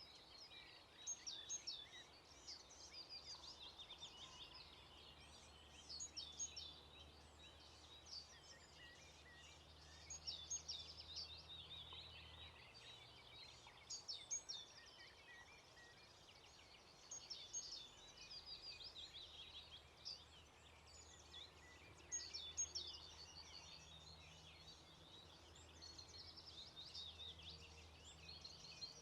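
Songbirds singing faintly, in quick phrases of high chirps and trills that come again every few seconds, over a faint steady low hum.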